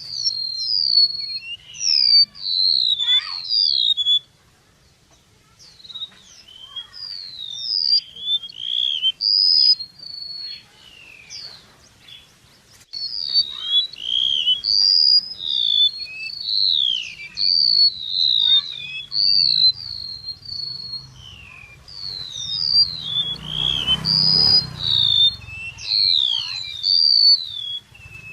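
A 'chim sâu' songbird singing a fast, continuous run of high, sharp chirps and short gliding whistles, a recorded song used as a lure call for trapping. The song pauses briefly about four seconds in. Near the end, a short rush of hiss and low rumble sounds under the song.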